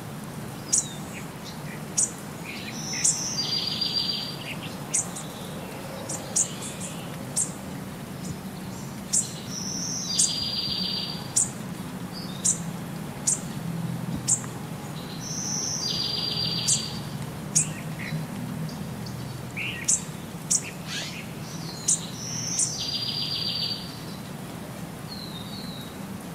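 Birdsong: short high chirps about once a second, and about every six or seven seconds a higher note followed by a buzzy trill, the same pattern repeating in a regular cycle over a low steady hum.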